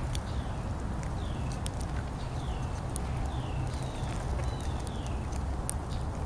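A bird calling with a run of short downward-slurred chirps, about one or two a second, mixed with scattered sharp clicks, over a steady low rumble.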